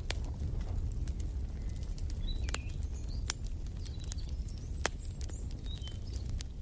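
Wood fire in a fireplace crackling and popping, with sharp snaps scattered over a steady low rumble. Small birds chirp briefly a few times over it, around the middle and near the end.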